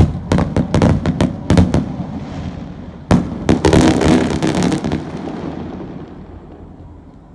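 Fireworks bursting: many sharp bangs in quick succession, then a second dense volley about three seconds in with crackling that dies away over the last couple of seconds.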